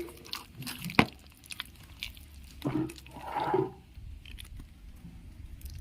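Hands squishing and mashing soft bael fruit pulp, with scattered small clicks and a sharper knock about a second in.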